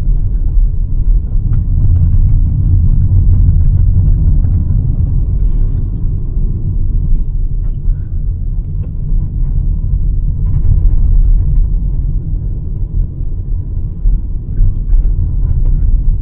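Hyundai Verna 1.5-litre turbo petrol car on the move: a steady low rumble of road and engine noise, a little louder in the first few seconds, with a few faint clicks.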